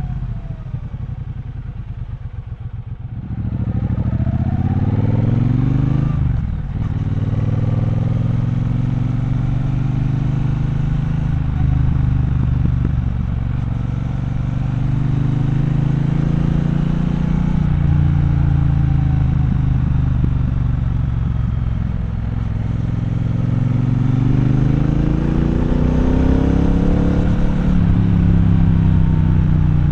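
Triumph Bonneville Bobber's 1200 cc parallel-twin engine on the move: it runs at low revs for the first few seconds, then pulls away about three seconds in with the revs climbing, dips briefly, and carries on with revs rising and falling, climbing again near the end.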